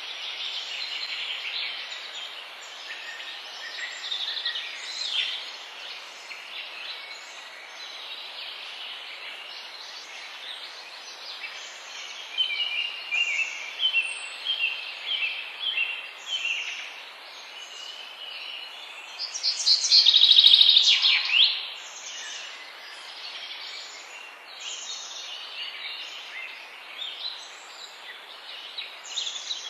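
Several songbirds calling and singing over a steady background hiss. Short notes repeat in runs, and about twenty seconds in comes a loud, rapid series of notes, the loudest call in the chorus.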